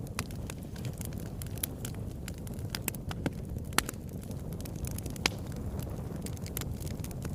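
Wood fire burning in a fireplace: a steady low rumble of flames with irregular sharp crackles and pops, two louder pops near the middle.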